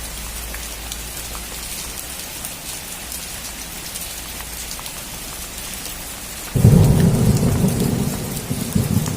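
Steady rain falling on a roof, with scattered drops ticking. About six and a half seconds in, a loud peal of thunder breaks suddenly and keeps rumbling low to the end.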